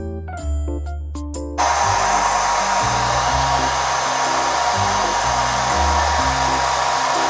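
ReFa Beautech hair dryer switched on about a second and a half in, then running steadily: an even rush of air with a thin, steady whine.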